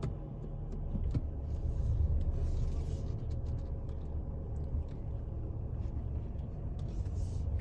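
A car running, heard from inside the cabin: a steady low rumble with a faint even hum and a few light clicks.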